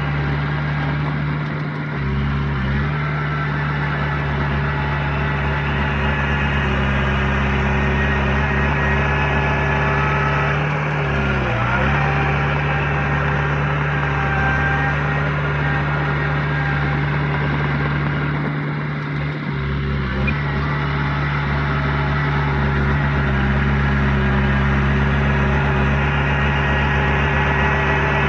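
Heavy diesel engine of earthmoving machinery running steadily, its pitch dipping briefly twice, about 11 seconds in and again about 19 seconds in.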